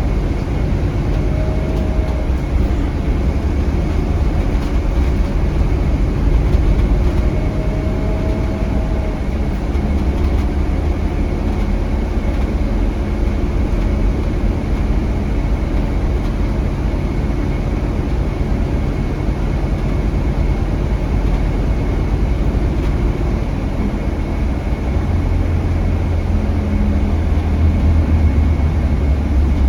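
Scania K320HB bus with its Scania DC9 five-cylinder diesel running steadily under way, heard as a continuous low rumble over road noise. A faint rising whine comes twice in the first ten seconds.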